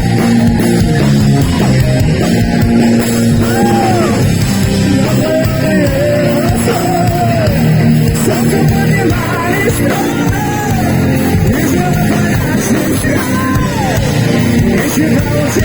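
Live heavy metal band playing: distorted guitars, bass and drums, with a lead line of bending, gliding notes coming in about three seconds in.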